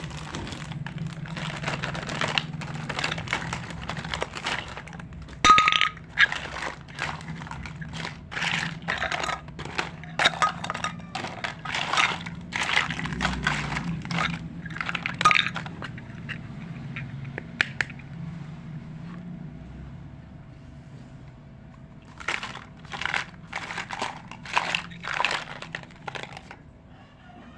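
Pieces of a miniature toy kitchen set being handled and set down: irregular runs of small clicks, taps and clinks. The clicks thin out for a few seconds in the middle, then pick up again near the end.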